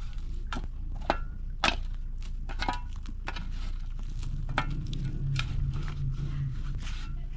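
Irregular sharp knocks and crunching clicks, as of materials being handled and worked, over a steady low hum; a low drone joins in about halfway through.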